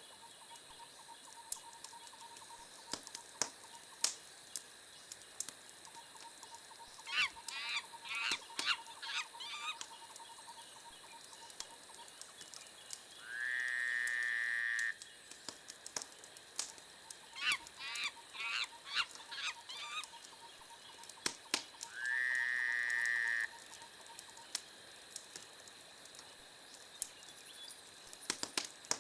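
Wood fire crackling with scattered sharp pops. Twice, a quick run of pitched chirps is followed a few seconds later by a louder, steady honk-like call lasting about a second and a half, the loudest sound here; a faint thin steady tone sits underneath.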